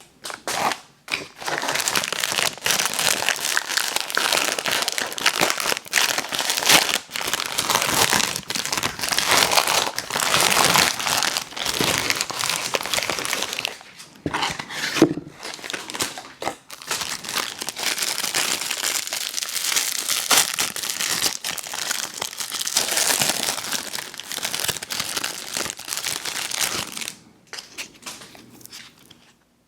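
Candy packaging crinkling and crumpling as it is handled and opened, in two long stretches with a short pause between them about halfway through.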